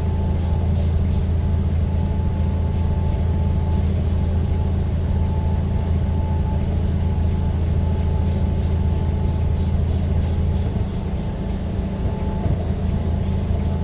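Steady low drone of a moving motor vehicle, with a faint on-and-off whine above it and a few light rattles.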